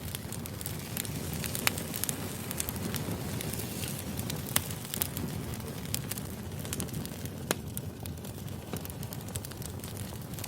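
Firewood burning, a steady low rush of flame with irregular sharp crackles and pops.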